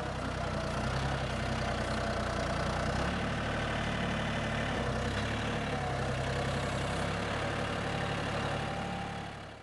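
A vehicle engine idling steadily close by, fading out near the end.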